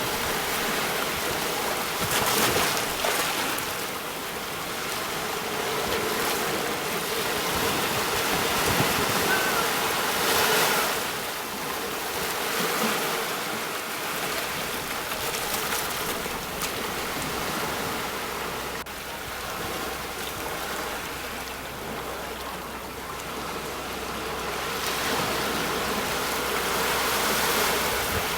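Sea waves breaking on the shore in a steady wash of surf, swelling louder with each wave every several seconds.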